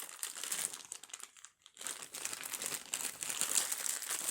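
A bag crinkling and rustling as it is handled, with a short pause a little over a second in before the crinkling resumes.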